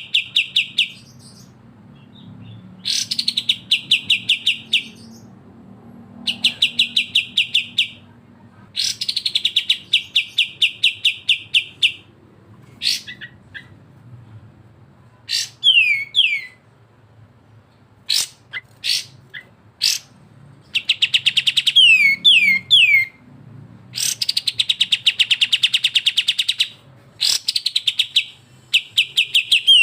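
Kapas tembak and cucak jenggot bulbul song for bird training. Rapid chattering trills, each lasting one to two seconds, repeat every few seconds. Between them come short, quickly falling whistled notes.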